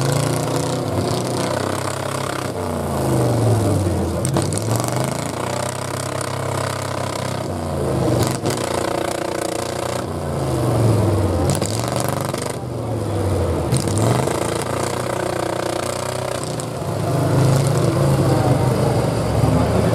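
Competition truck engine revving up and down over and over, its pitch dipping and climbing several times as it works under load.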